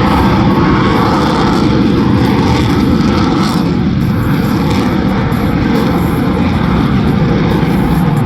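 Loud, steady aircraft engine noise from a jet flying an airshow display.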